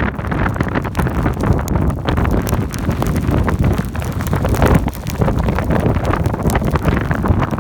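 Strong wind buffeting the microphone, with many small sharp ticks scattered through it.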